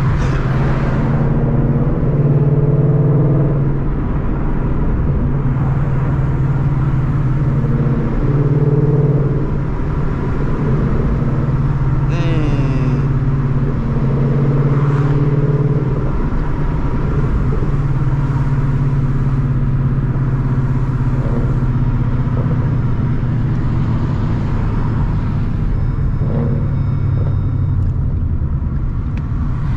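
Car engine and exhaust running while driving: a steady low drone that shifts in pitch as the revs change, with a brief rise and fall about twelve seconds in.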